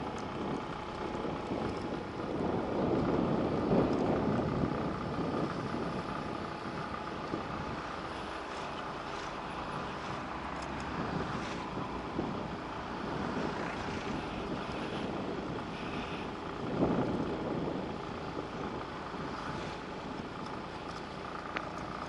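Motor scooter being ridden along the road: steady engine and road noise with wind buffeting the microphone. It swells louder around three to four seconds in and again briefly near seventeen seconds.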